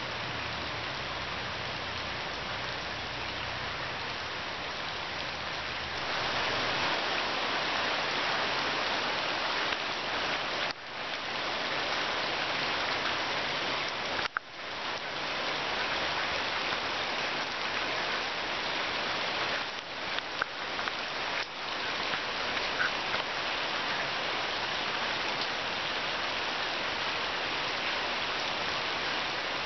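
Heavy rain falling in a steady hiss that grows louder about six seconds in, dropping away twice for a moment near the middle.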